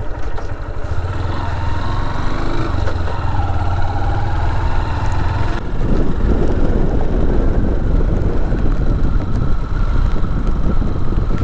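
Motorcycle engine running while riding, with its pitch rising and falling a little. A little over halfway through, heavy wind noise on the microphone takes over.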